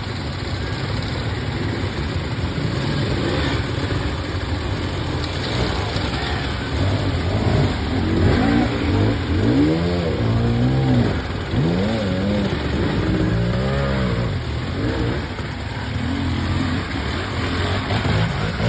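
Husqvarna dirt bike engine revving, the throttle opened and shut again and again so the pitch rises and falls in quick surges, most sharply about halfway through.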